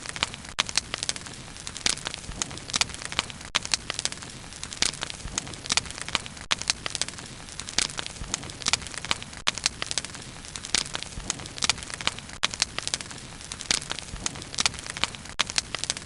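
Wood fire burning, with frequent irregular sharp crackles and pops over a steady low hiss.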